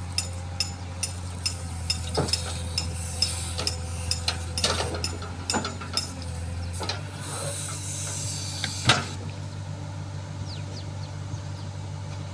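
Diesel engine running steadily, with a regular ticking of about two clicks a second that fades out partway through. A hiss follows, then a single sharp clank about nine seconds in.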